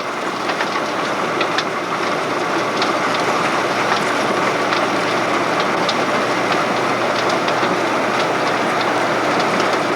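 Steady mechanical running noise with faint, irregular rattling clicks.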